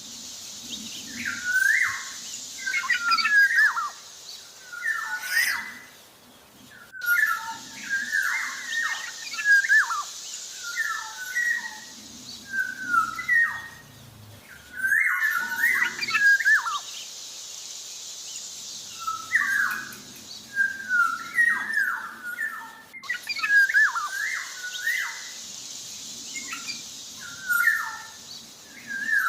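Black-naped oriole (kepodang jawa) singing vigorously: repeated short phrases of fluty whistled notes that glide up and down, a phrase every couple of seconds. Under it is a steady high hiss that breaks off abruptly a few times.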